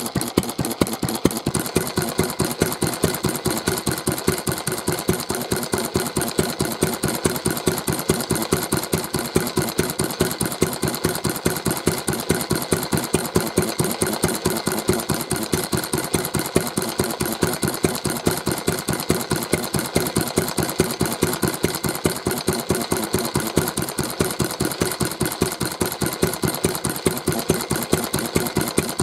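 Old Mitsubishi J1-type kerosene stationary engine (Shin Mitsubishi Heavy Industries) running steadily at idle, each firing stroke a distinct, even beat.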